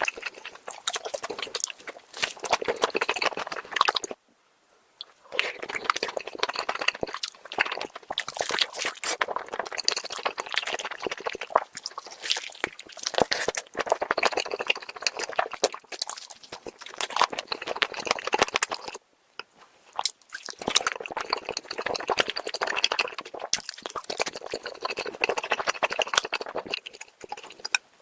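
Close-miked eating of a spicy chicken leg: continuous wet chewing and biting sounds, irregular and dense, that cut out to silence briefly about four seconds in and again around two-thirds of the way through.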